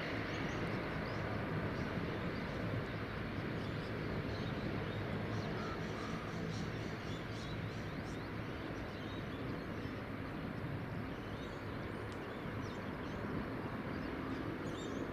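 Jet airliner engines running at low power, a steady distant rumble, with faint bird chirps on top.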